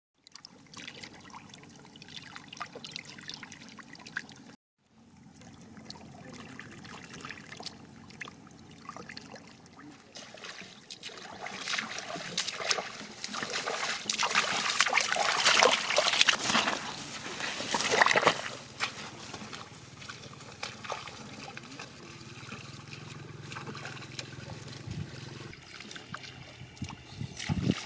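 Shallow water sloshing, trickling and splashing as it is waded through or stirred, with a brief drop-out about five seconds in and a louder, busier stretch of splashing in the middle.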